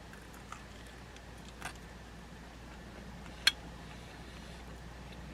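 A few scattered clicks over a faint steady low hum, one of them sharp and much louder about three and a half seconds in.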